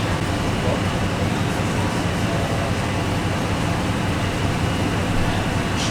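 Steady running noise of a moving diesel train heard from inside a passenger carriage: a constant low engine drone under the rumble of the wheels and rushing air.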